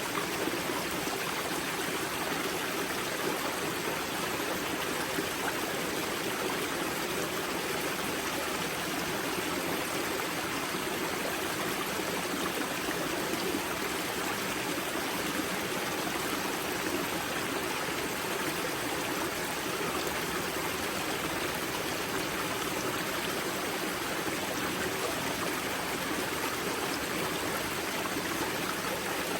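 Water of the river Grza flowing and splashing out of its karst spring: a steady, even rush of running water.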